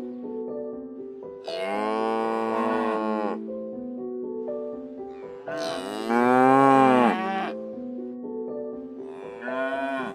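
Cows mooing: three long calls, the first about a second and a half in, the loudest about five and a half seconds in, and a shorter one near the end. Soft background music with held notes plays underneath.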